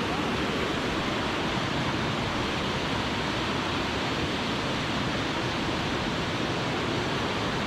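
A powerful river rushing, an even steady wash of water noise that does not change.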